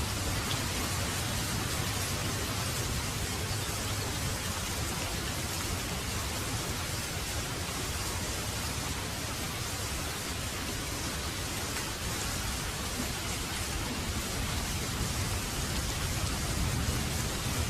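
Heavy rain falling in a steady, even hiss, with a low rumble underneath.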